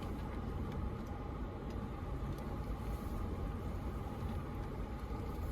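Toyota 4Runner running at low speed while crawling a rocky off-road trail: a steady low rumble with a faint hum above it and a few light ticks.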